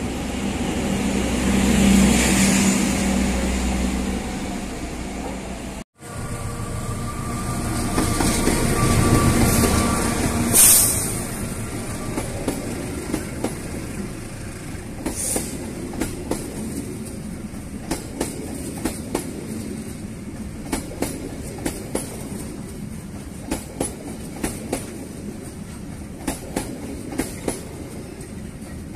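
Trains passing on the line. First a loud pass with a steady low drone; then, after an abrupt cut, another train swells past with a brief high screech, and its wheels click over and over across rail joints in irregular clusters.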